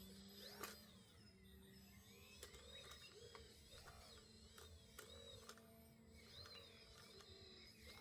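Near silence: faint birds chirping repeatedly in the background, with a few soft clicks and a faint steady low hum.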